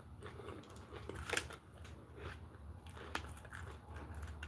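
Close-up chewing of a chicken burger: soft wet mouth sounds and scattered light crunches, with the sharpest crunch about a second and a half in and another just after three seconds.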